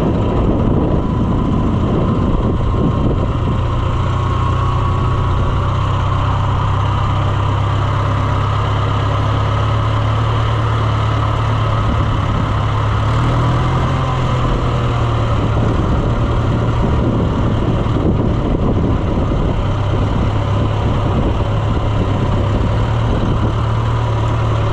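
Vehicle engine running steadily at an even, low speed, with a slight rise and fall in pitch about 13 seconds in.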